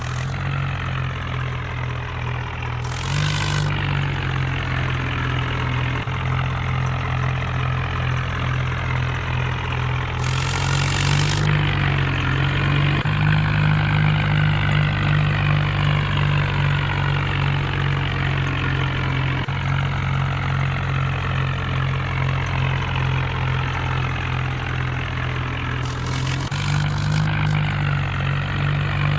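Heavy diesel engine running steadily under load, its note shifting a few times. Three short bursts of hissing noise come through it, near the start, about a third of the way in, and near the end.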